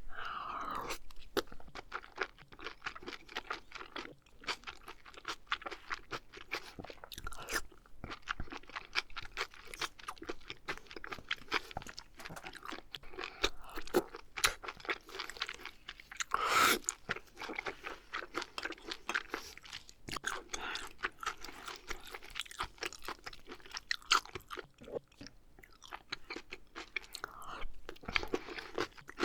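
Close-miked chewing of oysters: a dense run of small wet mouth clicks and smacks, with one louder burst about halfway through.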